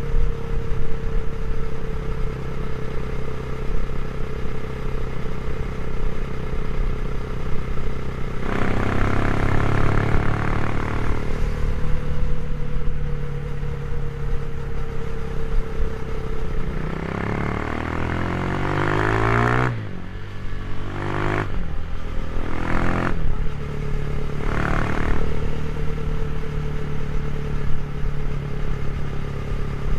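Motorcycle engine with a GPR aftermarket exhaust idling and being revved in place: one rev about eight seconds in, a longer rising rev that drops off sharply near twenty seconds, then several short throttle blips before settling back to idle.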